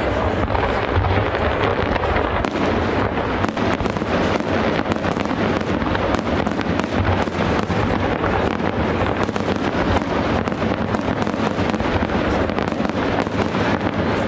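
Large aerial fireworks display: shells bursting without pause, dense crackling over a steady low rumble.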